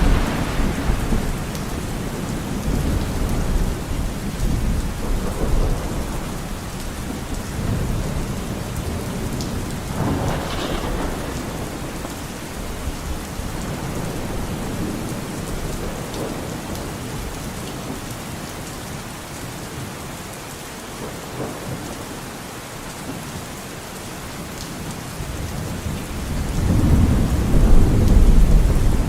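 Steady rain falling in a forest, with rolling thunder. A sharper thunderclap comes about a third of the way in, and a long low rumble builds toward the end.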